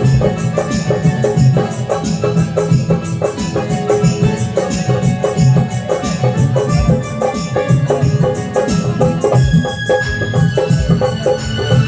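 Instrumental music from a stage-show band, a steady rhythm of percussion strokes over held melodic notes, with no singing yet.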